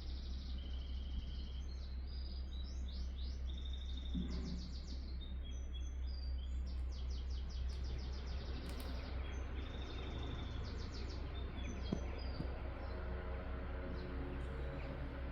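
Small songbird singing repeated rapid, high trilled phrases, over a steady low hum.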